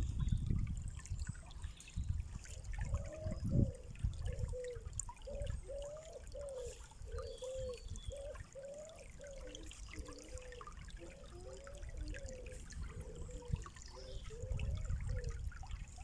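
Running water trickling, with a low rumble that is stronger at the start and near the end. Through the middle, a short pitched note repeats about twice a second.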